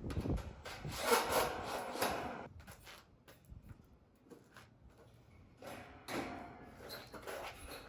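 Irregular rubbing and scraping with scattered light knocks, as of hands working on the condenser unit's parts and debris. It comes in two louder spells, about a second in and again about six seconds in.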